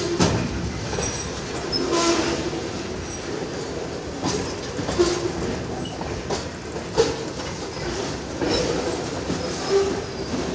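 Freight train boxcars rolling past, a steady rumble of wheels on rail with a sharp clunk every second or two as wheels cross rail joints.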